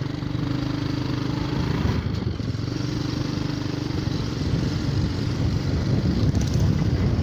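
Motorcycle engine running steadily while riding, with road and wind noise that grows somewhat in the second half.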